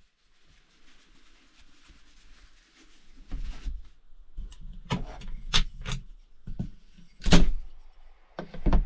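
A series of knocks and bumps, about half a dozen, the loudest a little past seven seconds in, over a faint hiss.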